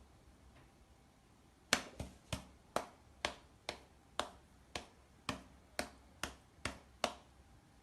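A run of about a dozen sharp clicks or taps, roughly two a second, starting a couple of seconds in and stopping shortly before the end.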